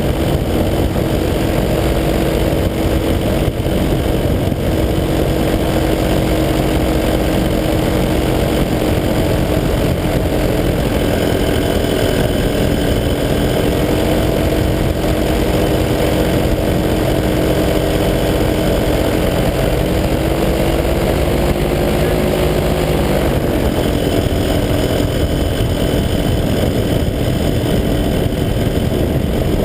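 185 cc paramotor engine and propeller running steadily in flight. About two-thirds of the way through, the engine note rises for a few seconds, then drops back.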